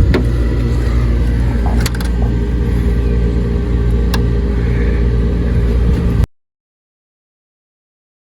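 Large rooftop HVAC unit running with a steady low hum, with a few sharp clicks about 2 and 4 seconds in. The sound cuts off abruptly to dead silence a little after six seconds.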